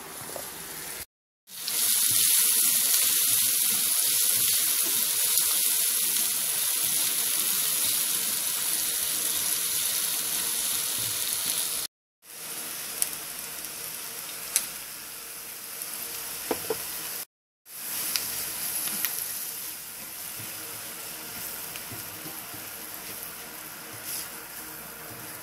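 Diced onion and garlic frying in butter in a hot nonstick pan: a steady sizzle, loudest in the first half and softer later on, with a few light taps of a spatula against the pan. The sound cuts off abruptly a few times.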